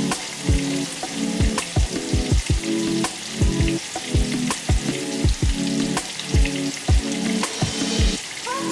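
Marinated chicken pieces shallow-frying in hot coconut oil in a kadai: a steady sizzle with frequent sharp pops, heard over background music with a regular beat.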